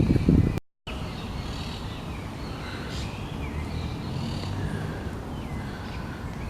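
Birds calling and chirping in short, repeated calls over a steady low background rumble. It opens with a brief loud blast of wind on the microphone that cuts off abruptly.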